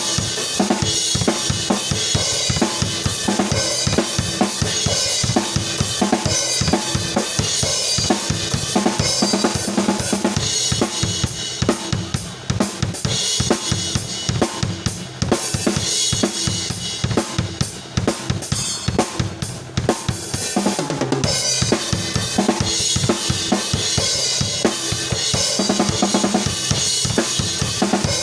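Isolated drum kit track from a song: kick drum, snare, hi-hat and cymbals playing a steady groove of evenly spaced strokes.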